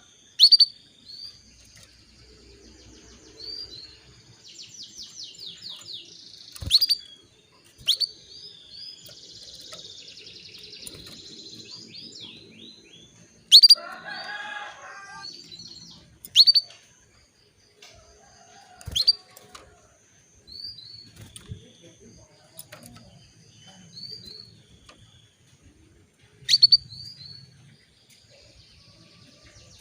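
Female canary calling: soft high chirps and short trills, broken every few seconds by loud, sharp call notes that sweep steeply down in pitch. This is the hen's call used to rouse a male canary into breeding condition and get him singing.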